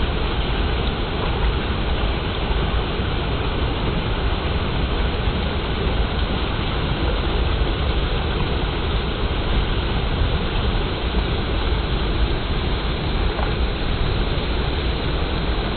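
Clear water flowing, a steady rushing noise with a strong low rumble underneath.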